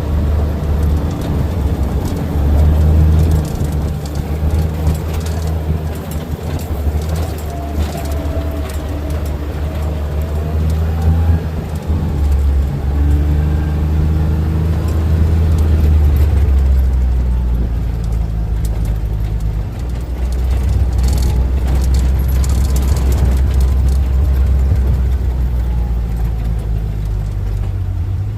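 Steady low engine rumble of a vehicle.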